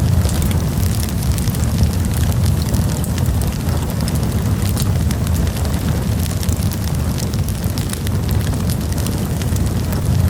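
Wood campfire burning: a steady low rumble with many quick, sharp crackles and pops scattered throughout.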